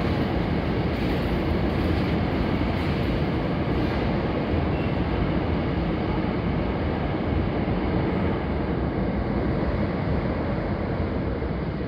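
Hankyu 1000 series electric train departing a covered station platform, its cars running steadily past close by with a continuous rumble. It eases off a little near the end as the train pulls away.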